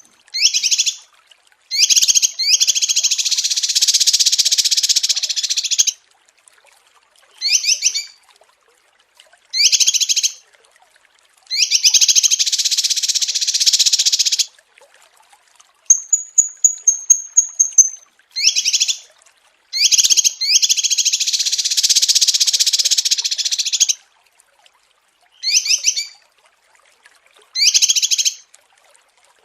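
Small songbird singing in a repeating pattern: short groups of high chirps alternating with long, rapid, dense trills lasting two to four seconds, with a thin high whistle twice, and clean silent gaps between phrases.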